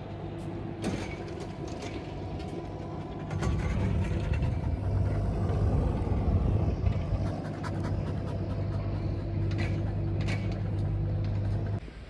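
A vehicle engine running with a steady low hum. It gets louder about three seconds in, then is switched off and cuts out abruptly near the end.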